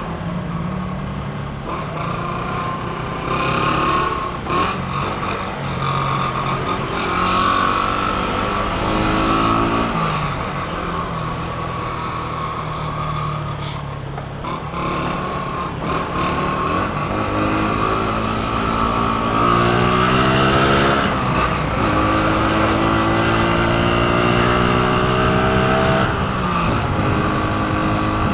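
Honda CG 125 Fan motorcycle's single-cylinder engine, heard from the rider's seat, running under way. Its pitch climbs several times and drops back as it accelerates and changes gear.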